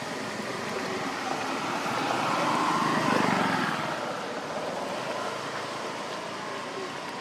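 A motor vehicle passing by: its engine and road noise swell to a peak about three seconds in, then fade away.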